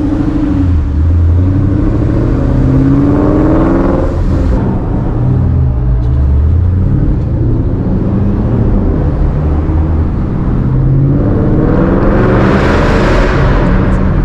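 Car engine running under load, revving up twice: its pitch climbs about two to four seconds in and again near the end, over a steady low rumble.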